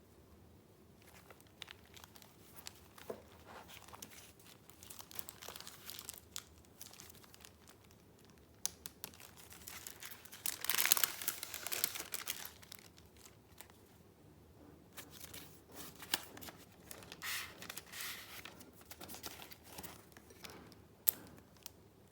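Paper being handled: sheets and paper pieces rustling and crinkling in irregular bursts, loudest for a couple of seconds about halfway through, with a sharp tap near the end.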